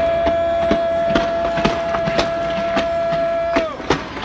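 Fireworks going off, a sharp bang about every half second. Over them a horn holds one steady note, which sags in pitch and stops near the end.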